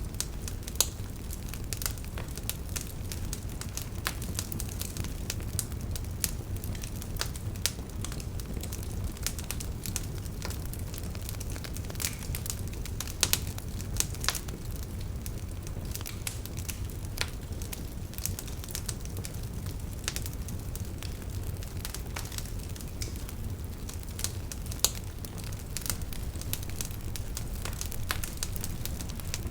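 Campfire crackling: frequent sharp pops and snaps, a few louder ones standing out, over a steady low rumble.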